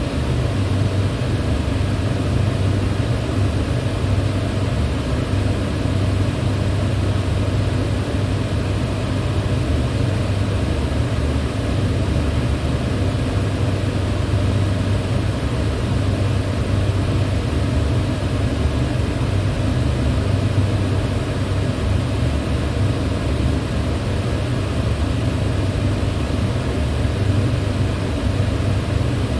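Electric fan running steadily: an even rush of air over a low, constant motor hum.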